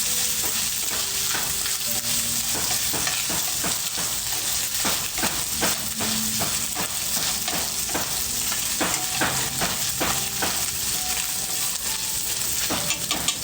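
Food frying over a wood fire: a steady sizzling hiss broken by frequent sharp pops and crackles.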